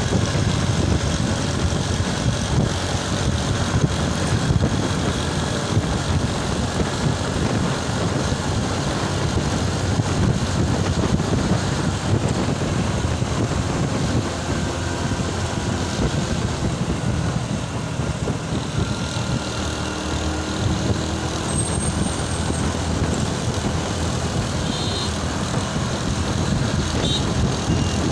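Motorcycle running steadily, a continuous low engine rumble.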